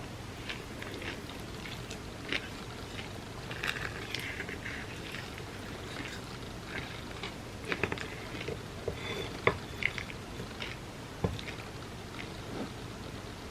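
Eating chocolate cake soaked in warm almond milk: wet chewing and squelching, with scattered sharp clicks and taps, a few louder ones around the middle.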